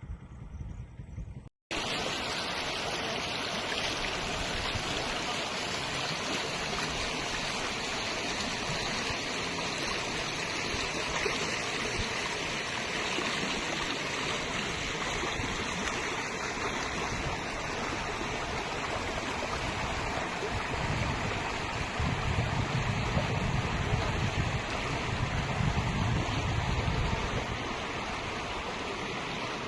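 Floodwater rushing steadily, a dense, unbroken noise that starts abruptly just under two seconds in. A deeper low rumble swells for several seconds in the latter part.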